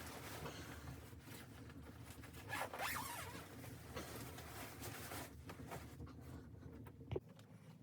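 A zipper being pulled, a rasping run of strokes that is loudest about two and a half seconds in. A sharp click comes near the end.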